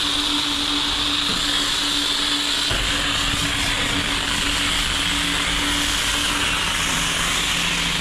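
Car wash pre-soak spray hissing steadily as the wand is worked over the car, heard through a microphone in the engine bay, with a steady hum underneath. A deeper rumble joins about three seconds in.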